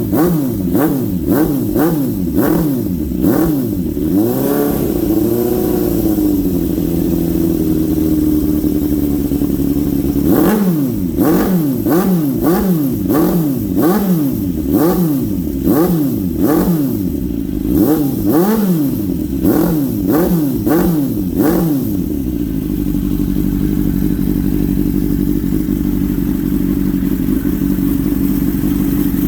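1992 Suzuki GSX-R750's inline-four engine revved in quick repeated throttle blips, dropping back to a steady idle for a few seconds, blipping again for about twelve seconds, then settling to an even idle.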